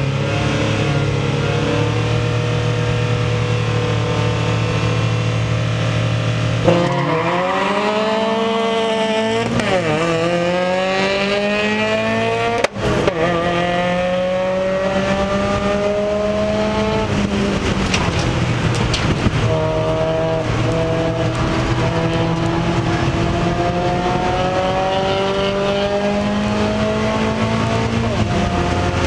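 Mazda Miata race car's four-cylinder engine heard from inside the stripped cabin. It holds a steady, low engine note, then about seven seconds in it revs up under hard acceleration, its pitch climbing through several gears with a quick drop at each upshift.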